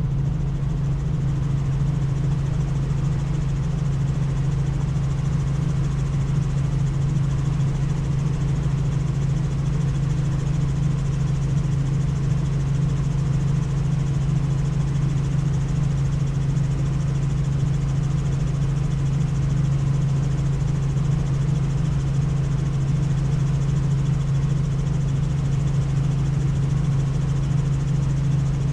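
Helicopter in flight: a steady, unchanging drone of rotor and engine, dominated by a strong low hum.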